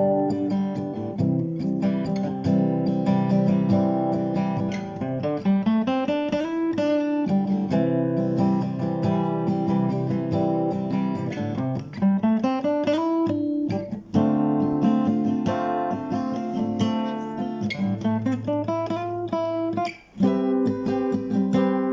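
Background music led by strummed and plucked acoustic guitar, with notes that slide upward several times.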